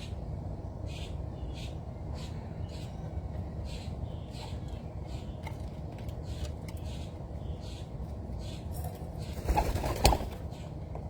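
Wild birds at a feeding spot: short high chirps repeat about twice a second over a steady low rumble. About nine and a half seconds in comes a brief, louder flurry of flapping wings as birds take off or land.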